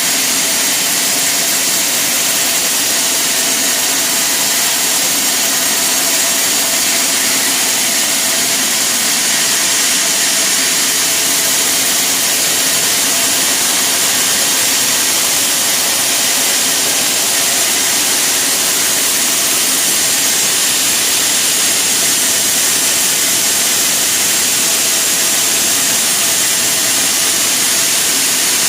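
Sawmill machinery running steadily: a loud, even, hissing mechanical noise with a faint steady hum underneath, unchanged throughout.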